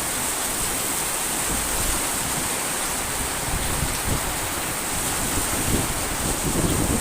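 Heavy rain pouring down with strong wind, a steady rushing hiss.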